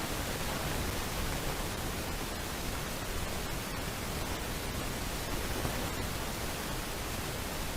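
Steady, even hiss of noise with no bird calls.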